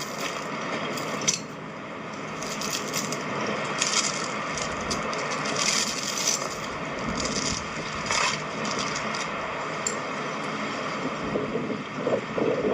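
Steel chain being pulled through a culvert, its links clinking, rattling and scraping in irregular bursts over a steady rushing noise.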